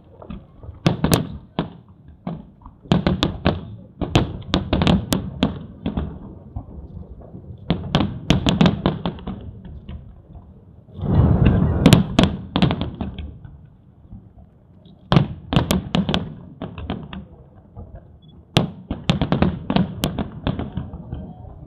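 Aerial fireworks shells bursting in irregular clusters of sharp bangs and thuds, with the densest, loudest volley about halfway through.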